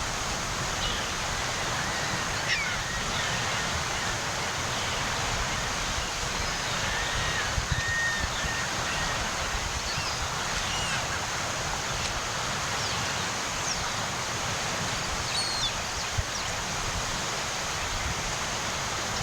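Steady shoreline ambience: a continuous wash of water and wind on the Chesapeake Bay shore, with a few short, high bird chirps scattered through and one longer held whistle about eight seconds in.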